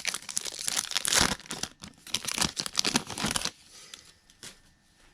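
Wrapper of a Topps Holiday Baseball card pack being torn open and crinkled, a dense crackling rustle that dies away after about three and a half seconds, followed by a faint click.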